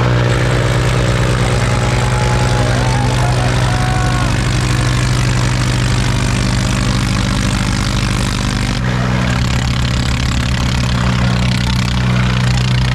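Tractor diesel engines running steadily with a deep, even hum during a tractor tug-of-war. The sound changes abruptly about nine seconds in.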